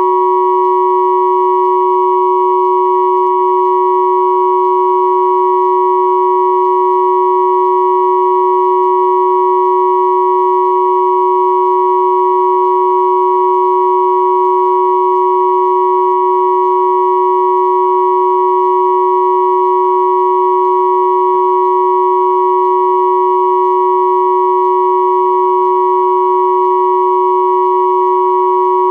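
Three steady electronic pure tones at 369, 963 and 1111 Hz sounding together as one continuous, unchanging drone.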